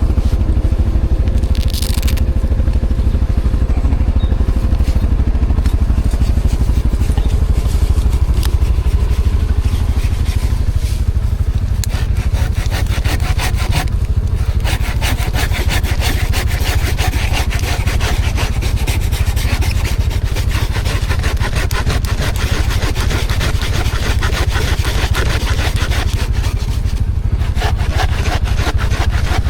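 ATV engine running steadily under way, with a rough scraping and rustling noise over much of the middle part.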